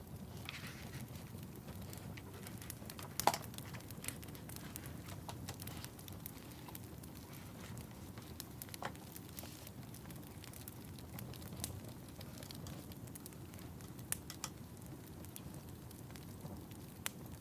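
Wood fire burning in a fireplace: a steady low rumble of flames with irregular crackles and pops, one sharp pop about three seconds in louder than the rest.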